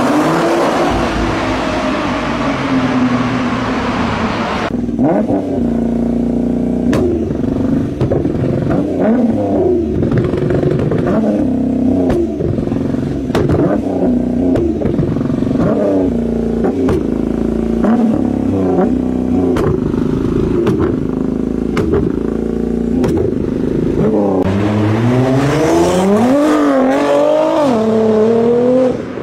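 Nissan GT-R R35 twin-turbo V6 exhaust across three clips. It first accelerates through a tunnel, then is revved up and down for a long stretch with many sharp exhaust pops and cracks. About 24 s in, it accelerates hard past on a road, the revs climbing, dipping and climbing again.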